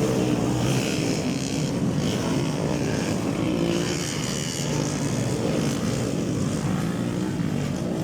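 Motocross bike engines running and revving, the pitch rising and falling throughout.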